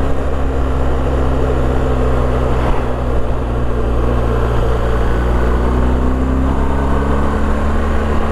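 BMW R1250GS boxer-twin engine running at a steady cruise, its pitch shifting slightly in the middle, with steady rushing noise over it.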